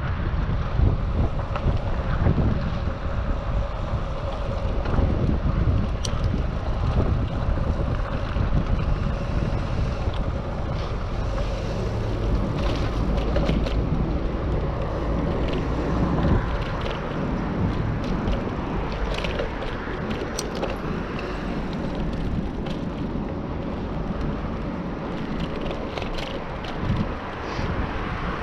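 Wind buffeting a GoPro action camera's microphone during a bicycle ride, a steady low rumble, with tyre and road noise beneath it. A few small clicks or rattles come through now and then.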